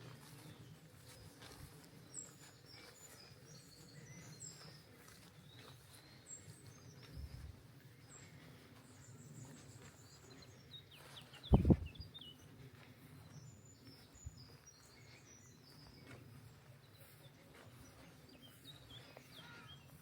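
Songbirds chirping and twittering on and off over faint outdoor ambience. About halfway through comes a brief loud low thump, with a smaller one a few seconds earlier.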